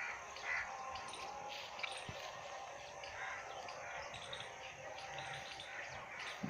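Faint outdoor ambience with small birds chirping, and a faint knock about two seconds in.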